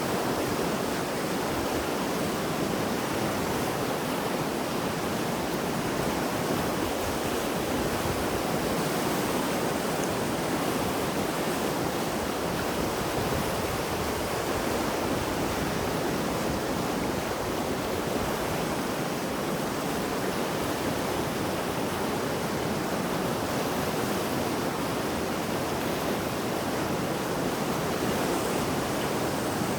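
Mountain river in spate after heavy rain, its swollen water rushing in a steady, unbroken roar.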